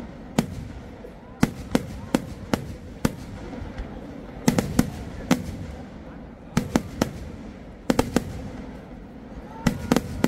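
Kerala temple fireworks (vedikettu): a string of sharp bangs at irregular intervals from aerial shells bursting, often two or three in quick succession, with short gaps of a second or so between clusters. A low, steady background noise runs between the bangs.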